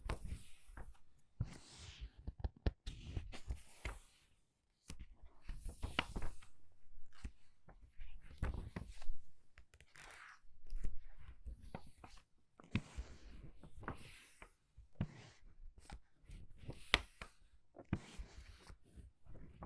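Book pages being turned quickly one after another, each turn a papery swish with soft taps and flicks of paper. There is a short quiet pause about four and a half seconds in.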